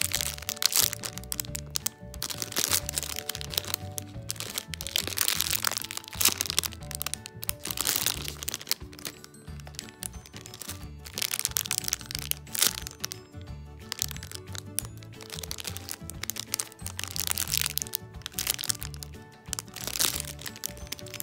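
Clear plastic bags crinkling and crackling in repeated bursts as squishy toys inside them are squeezed and handled, over background music.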